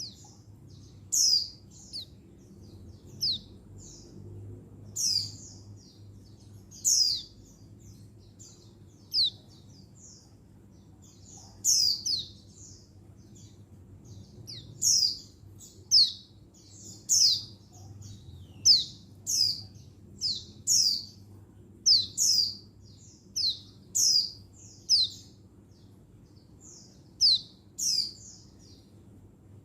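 Female white-eye (pleci) giving short, high, falling call notes, singly or in quick pairs, every second or two. This is a female's call to draw a male.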